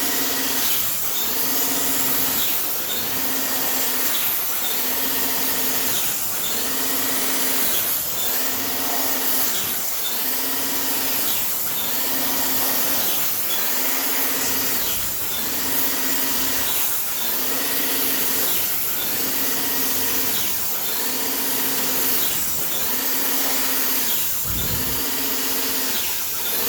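Electric airless paint sprayer running and spraying rinseless wash solution at about 1500 psi: a steady spray hiss over a pump hum that pulses in a regular cycle about every 1.3 seconds. A single low thud near the end.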